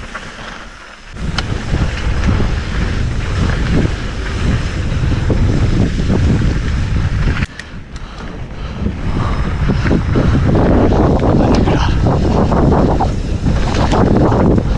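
Wind rushing over the microphone as a mountain bike rides fast down a rough dirt trail, with the rumble and rattle of the tyres and bike. The noise jumps up about a second in and drops briefly about halfway.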